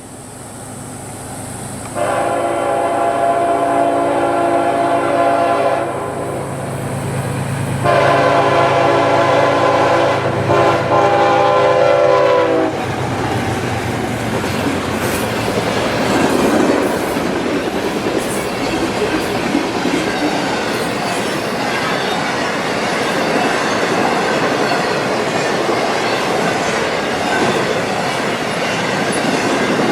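Diesel freight train locomotive sounding its horn in two long blasts, the second slightly falling in pitch at its end, over the rumble of its engine. Then the train rolls past with wheels clattering and rumbling on the rails and some faint high wheel squeal.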